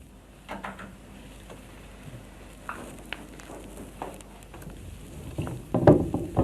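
Scattered light clicks and knocks over a faint steady hiss, with a louder cluster of knocks about six seconds in.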